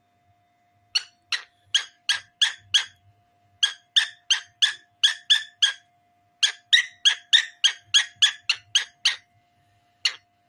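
A cockatiel calling loudly in quick, sharp chirps, about three a second, in three runs separated by short pauses, with one last chirp near the end. A faint steady tone sounds underneath.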